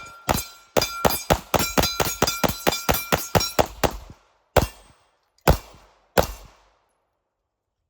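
Masterpiece Arms DS9 Steel Challenge, a 2011-style 9mm pistol, fired in a fast string of about five shots a second for some three and a half seconds, then three slower single shots about a second apart, with a metallic ringing under the string.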